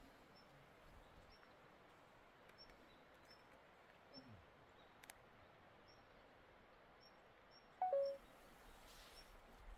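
Quiet rural hillside ambience: faint high chirps of a small bird repeat about once a second over a soft hiss. Near the end comes one brief, louder two-note call, the second note lower.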